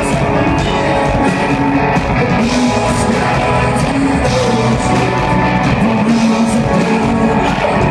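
Live rock band playing an instrumental break of a folk-rock song, guitars to the fore over drums.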